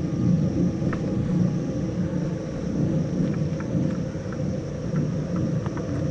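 Steady low rumbling noise, with a few faint short ticks scattered through it.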